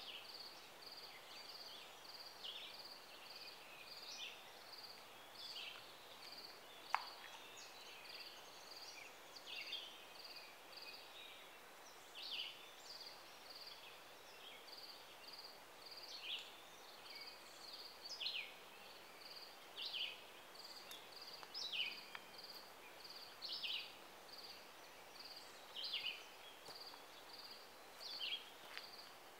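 Faint birds calling: short falling chirps every second or two over a steady, regular high pulsing, with one sharper note about seven seconds in.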